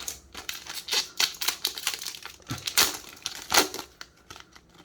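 Yu-Gi-Oh trading cards and booster-pack wrappers being handled by hand: a quick, uneven run of clicks, snaps and crinkles, loudest about a second in and again around three and a half seconds.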